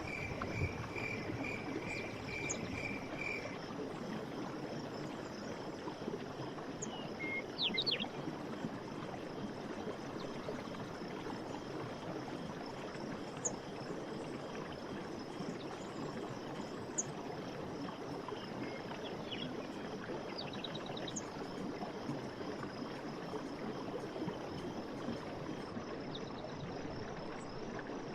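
Steady rush of a forest stream or river, with insects trilling continuously in the background. A rapid pulsing call runs through the first few seconds, a bird gives a short burst of chirps about eight seconds in, and brief high chirps are scattered throughout.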